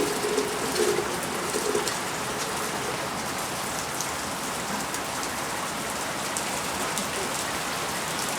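Steady rain falling, an even hiss with single drops ticking now and then.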